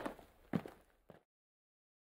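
Footsteps on a wooden deck, about two steps a second, three in all. The sound cuts off abruptly into dead silence a little over a second in.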